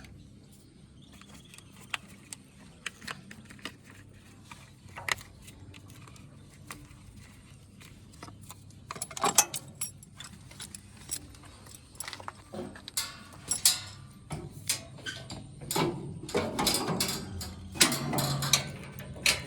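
Irregular metallic clicking and rattling over a low, steady hum. It is sparse at first, then busier and louder from about halfway through.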